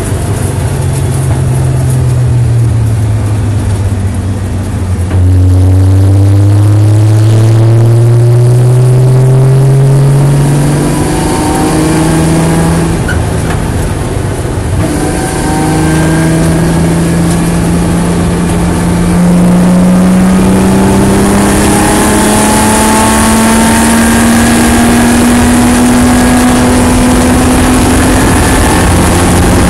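Nissan 300ZX's 3.0-litre V6 racing on track, heard from inside the stripped-out cabin. It winds down off throttle at first, then goes back on full throttle about five seconds in and climbs in pitch. It eases off mid-way and pulls hard again from about two-thirds through, pitch rising steadily, with wind noise building as speed increases.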